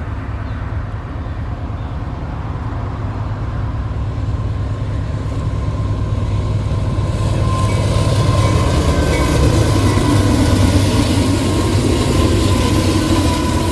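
Diesel-hauled freight train approaching and passing, its deep locomotive rumble growing louder through the first two-thirds and then holding, with a thin steady whine joining about halfway through.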